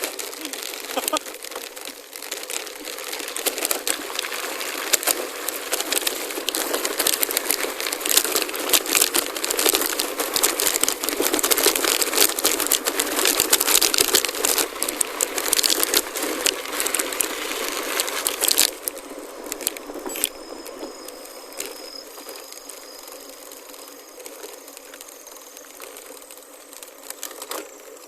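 Gravel bike tyres rolling over a loose gravel forest road, a dense crunching and crackling full of small stone clicks and rattles, which drops to a much quieter rolling sound about 19 seconds in.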